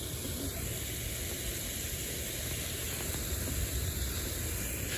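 Steady outdoor hissing noise with a low rumble underneath.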